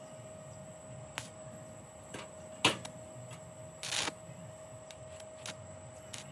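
A handful of scattered light clicks and taps, like small parts being handled. The sharpest comes about two and a half seconds in and a short rattle follows about four seconds in, over a faint steady hum.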